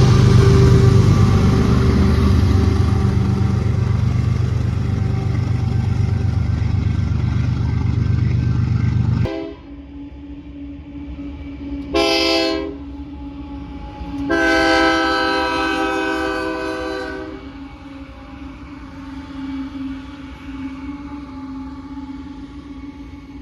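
Freight train rumbling heavily, cut off abruptly about nine seconds in. Then a locomotive air horn sounds a short blast and a longer blast of about three seconds, over a steady low hum.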